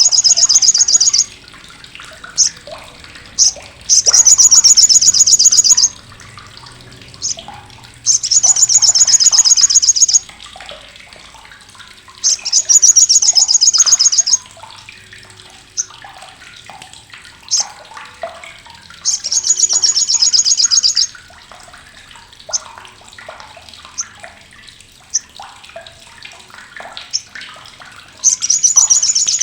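Olive-backed sunbird (sriganti) giving its crecetan: loud, harsh, sharp rapid-fire chattering trills of about two seconds each, repeated every few seconds, with short single chips in between.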